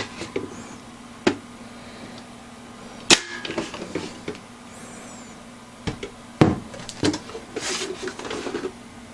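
Hard parts of a desktop computer being handled: a few separate sharp clicks and knocks, the loudest about three seconds in and about six and a half seconds in, then a short stretch of rubbing or sliding near the end. A faint steady hum runs underneath.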